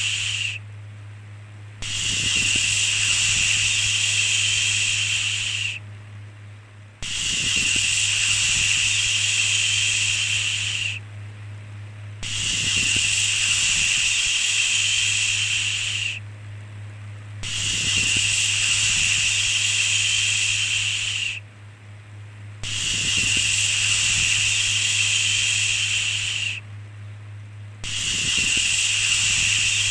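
Long 'shhh' shushing sounds, each about four seconds, repeated about every five seconds with a short pause between, over a steady low hum.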